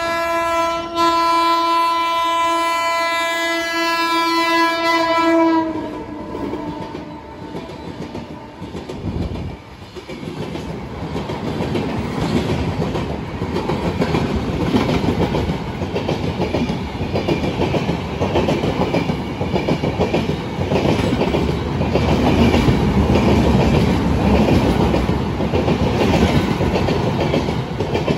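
An electric locomotive's horn is held in one long, steady blast that stops about six seconds in. Then an express train's LHB coaches rush past at speed, their wheels clattering rhythmically over the rail joints and growing louder as the train draws level.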